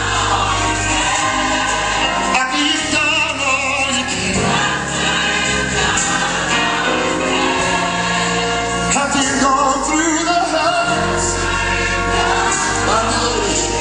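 Recorded gospel song with a choir singing over full band accompaniment and a steady bass line.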